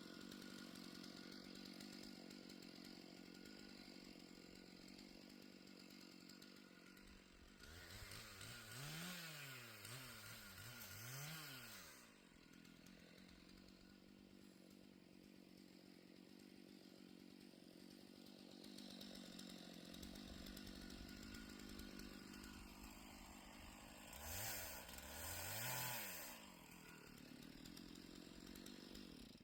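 Faint two-stroke chainsaw running steadily, with two pairs of brief throttle-ups whose pitch rises and falls, about a third of the way in and again near the end, while firewood is cut from a fallen tree.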